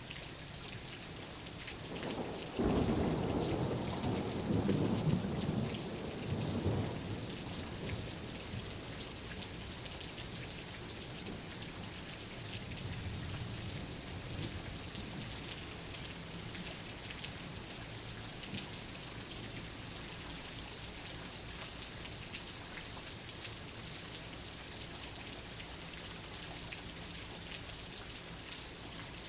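Steady heavy rain with thunder: a rumble rolls in about two and a half seconds in, the loudest part, and dies away over several seconds. A softer rumble follows about halfway through.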